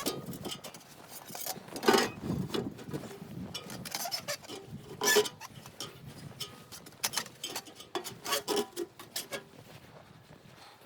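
Irregular knocks, clicks and rubbing of objects being handled, with two louder knocks about two and five seconds in.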